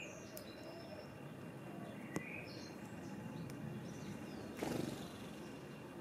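Small garden birds chirping now and then over steady outdoor background noise, with a single sharp tick about two seconds in and a short rustling burst a little before the end.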